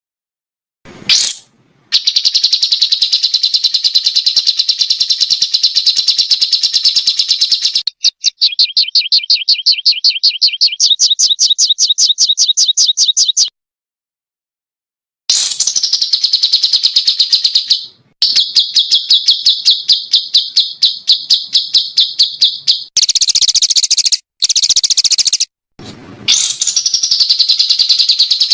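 Recorded song of a small songbird in rapid-fire 'tembakan' phrases: long, fast trills of rapidly repeated high notes, each phrase lasting several seconds and cut off abruptly into silence. In one phrase, near the middle, the notes alternate between two pitches.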